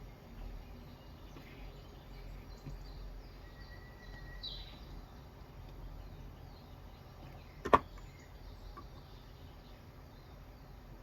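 Faint birds chirping over a low steady background hum, with one single sharp click about three-quarters of the way through.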